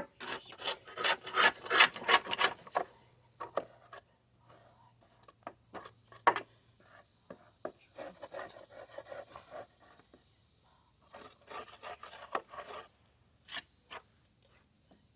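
Hand scraper scraping dried, caked grass clippings off the underside of a Toro 22-inch lawn mower deck, in runs of quick rasping strokes. The loudest run comes first, then quieter runs with pauses between.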